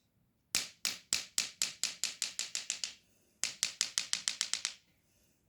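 Two runs of sharp, quickening taps or clicks: about a dozen in the first run, then a short break, then about nine more that come faster and faster.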